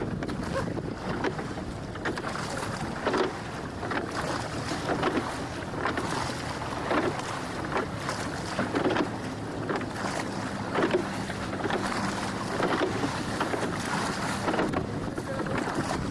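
Water rushing and splashing along the hull of a boat under way, in irregular surges every second or two, with wind buffeting the microphone.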